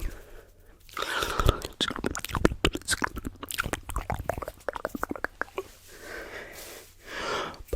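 Close-miked ASMR mouth sounds layered with tapping: a dense, irregular run of wet mouth clicks and sharp taps, with breathy hissing about a second in and again near the end.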